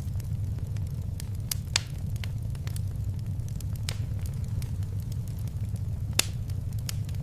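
Wood fire crackling in a fireplace: scattered sharp pops, a louder one about two seconds in and another about six seconds in, over a steady low rumble of flames.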